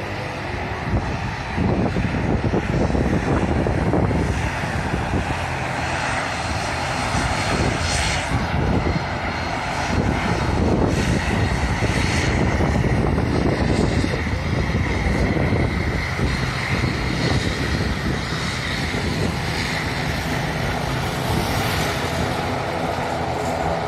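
Airliner engines running loudly as an aircraft passes close by at the airport, a sustained rumble with a faint whine, swelling about two seconds in and staying loud.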